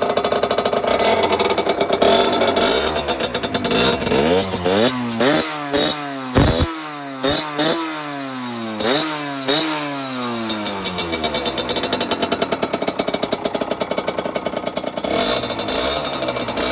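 Aprilia RS50's 50cc two-stroke single with a full Arrow exhaust, running and blipped up in about five quick revs around the middle, each rising and falling back, then settling to a steady idle.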